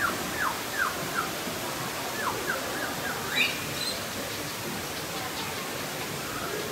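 Small birds chirping in short, quick, falling high notes, a rising note among them about three and a half seconds in, over a steady background hiss.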